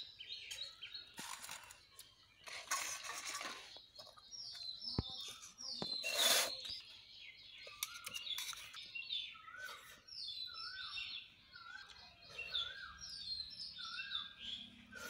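Small birds chirping over and over in short repeated notes, with a few short bursts of noise in between, the loudest about six seconds in.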